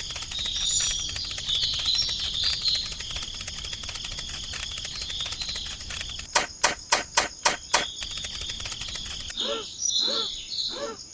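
Steady chorus of crickets and other insects, with bird chirps over it in the first few seconds. A quick run of about seven sharp clicks comes near the middle, and the insect chorus cuts off suddenly near the end.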